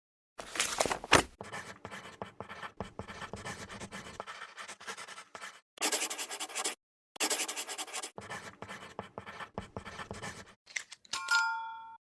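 Pencil scratching across paper in quick, rapid strokes, heard in several runs that cut off abruptly between them. A few steady chime-like musical tones come in near the end.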